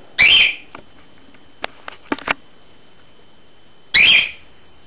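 Cockatiel screeching: two loud, shrill calls, one just after the start and one about four seconds in, with a few faint clicks between them.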